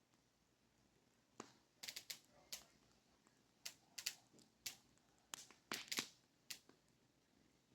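Faint wood fire crackling: about a dozen irregular sharp pops and snaps, some in quick clusters, over a quiet background.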